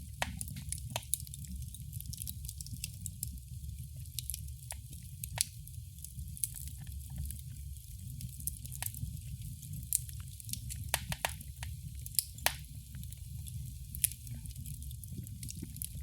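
Wood fire crackling in a fireplace: a steady low rumble under irregular sharp pops and snaps, with a tight cluster of pops about eleven to twelve seconds in.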